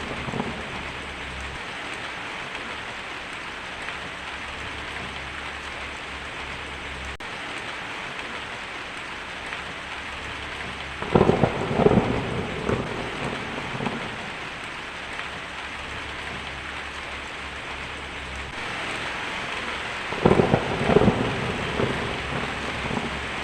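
Heavy rain falling steadily on a tin roof, with two rolls of thunder: one about halfway through and another near the end.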